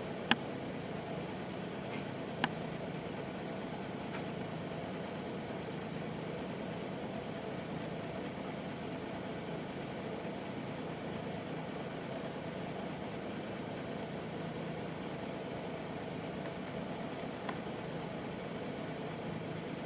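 Nissan Diesel Space Runner RM bus's FE6 inline-six diesel idling steadily, heard from inside the passenger cabin. Two sharp clicks come in the first few seconds.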